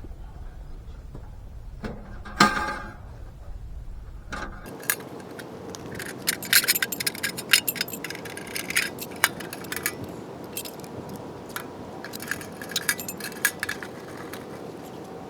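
Small metal objects clinking and rattling as they are handled, in a string of quick irregular clinks, with one sharp knock about two and a half seconds in and a steady background hiss from about five seconds on.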